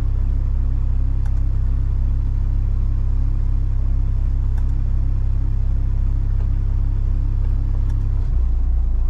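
Boat's inboard engine running steadily with a low rumble, its note dropping near the end.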